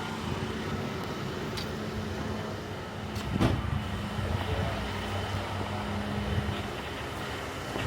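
Steady low mechanical hum, with a single sharp knock about three and a half seconds in.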